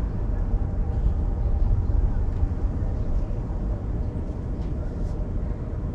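A car being driven: steady low road and engine rumble with no sudden events.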